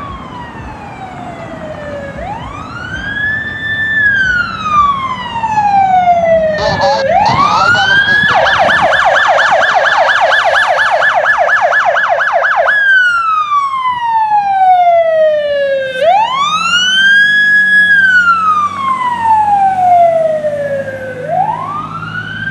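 Fire apparatus siren running code 3: a slow wail rising and falling about every five seconds, then, after a brief burst about seven seconds in, a fast yelp of about five pitch sweeps a second for roughly four seconds before it returns to the slow wail.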